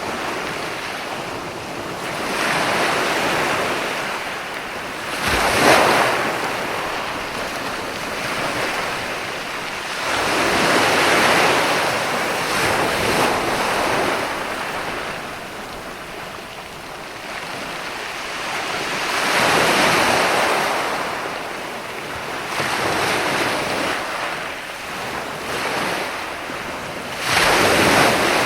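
Mediterranean sea waves breaking on a beach and washing up the shore, swelling and fading every few seconds, with the sharpest crashes about five and a half seconds in and near the end.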